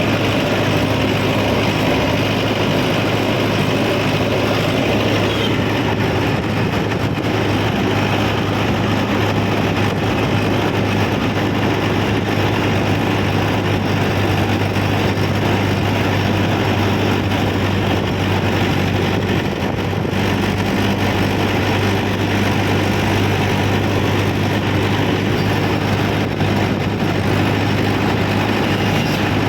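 Mahindra tractor's diesel engine running steadily at an even speed, a constant low drone with no change in pitch.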